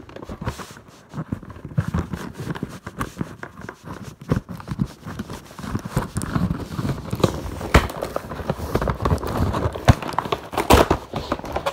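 Cardboard box and packaging being handled while a toy helicopter is taken out: irregular rustling with scattered knocks and clicks, a few sharper knocks in the second half.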